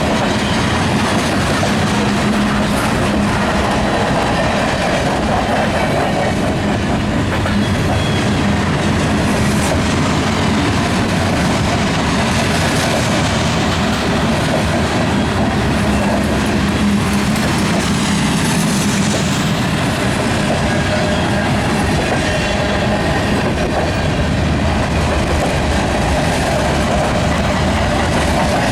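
Freight cars of a manifest train rolling past, a steady loud rumble of steel wheels on the rails with clickety-clack.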